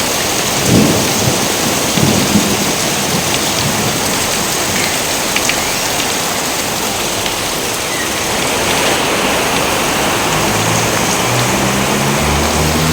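Steady heavy rain falling, with thunder rumbling low, strongest in the first couple of seconds and again near the end.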